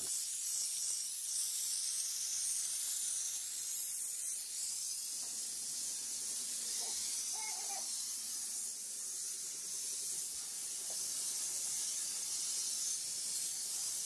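Handheld steam cleaner jetting steam onto an air conditioner's evaporator coil, a steady high hiss.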